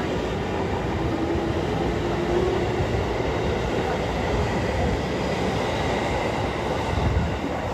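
A train running past on the rails: a steady rumble with a faint hum in the first couple of seconds, starting to fade just at the end.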